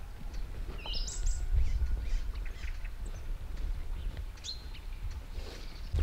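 Birds chirping a few times, the clearest call a quick rising chirp about a second in, over a steady low rumble.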